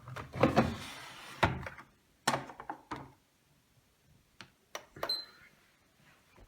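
Front-loading washing machine door being handled: a run of thunks and clicks with a short rustling stretch in the first two seconds, then a few lighter clicks about four to five seconds in.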